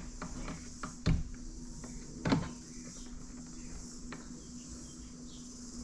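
Small clicks and knocks of hand work on wiring parts, with two louder sharp knocks about a second and two seconds in, over a steady low hum and a high hiss.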